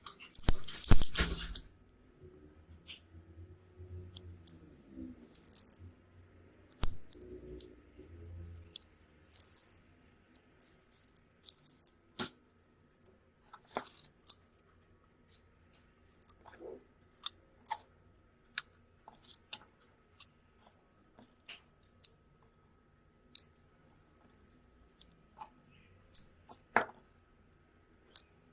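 Small hard parts and hand tools clicking and clattering while a phone is taken apart or worked on. It opens with a loud clatter in the first second or so, followed by scattered single clicks and taps.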